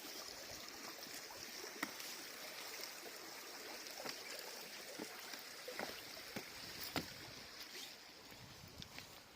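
Steady rush of the M'Goun river's flowing water, with scattered sharp clicks, the loudest about seven seconds in.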